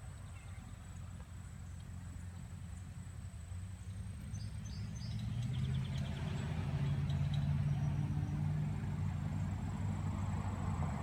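A motor engine running steadily with a low hum, growing louder about five seconds in as it comes closer.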